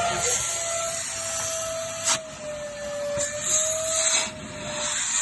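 Vitamax vacuum cleaner running at full suction during a suction-pressure check: a steady motor whine with a rushing-air hiss that surges several times, sharply about two seconds in and then in longer swells.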